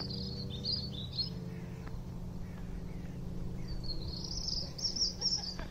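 A small songbird singing short, high twittering phrases about a second in and again for the last couple of seconds, over a steady low hum.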